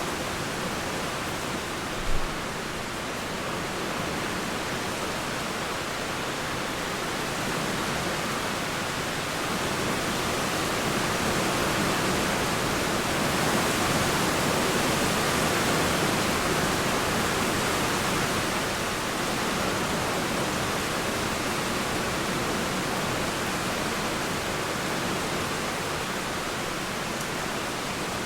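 Steady rain falling, with the rush of a flowing river under it, a continuous even hiss that grows louder for several seconds in the middle. A single short sharp knock about two seconds in.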